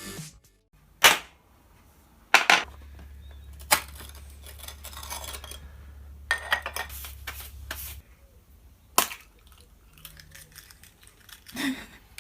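A series of sharp clicks or snaps, about six of them, irregularly spaced a second or more apart, with a low steady hum through the middle.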